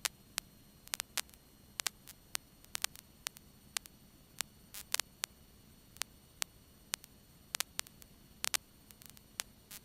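Static crackle on an aircraft radio and intercom audio feed between transmissions: irregular sharp clicks and pops, a few each second, over a faint hiss.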